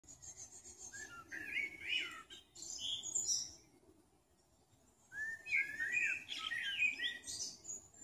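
A songbird in the woodland canopy singing two long, varied warbling phrases with a pause of about a second and a half between them. Each phrase runs from lower fluty notes up into higher twittering. Faint quick high notes from another bird come in the first second, over a soft background hiss of the woods.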